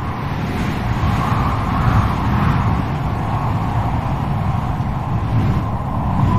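Strong wind blowing steadily, with a deep low rumble and a whistling tone that swells about a second in.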